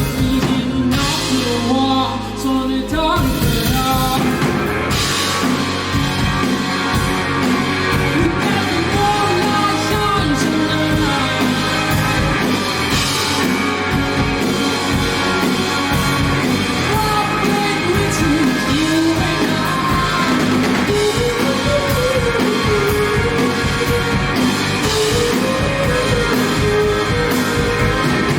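Indie rock band playing live, a singer over electric guitars, bass and drums.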